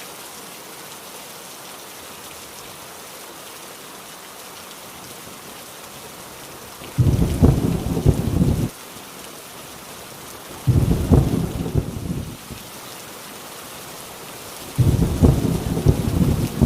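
Heavy rain falling steadily, with rolls of deep thunder rumbling in three bouts, about halfway through, around two-thirds through and near the end; each bout starts and stops abruptly.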